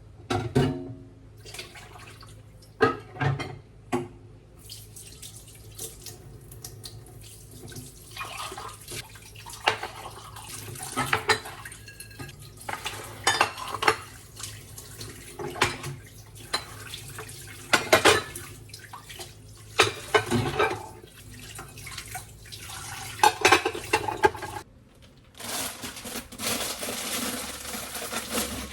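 Washing dishes at a sink: tap water running while dishes and utensils clink and knock against each other. A fuller, steady stream of water runs near the end.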